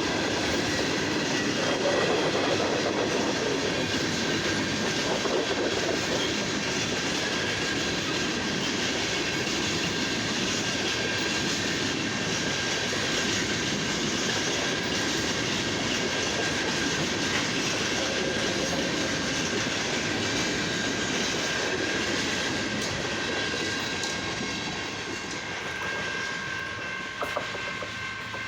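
Slow-moving freight train cars rolling past, wheels clacking over the rail joints under a steady high ringing from the wheels and rails. The noise eases slightly near the end as the train finishes passing, with a couple of short knocks.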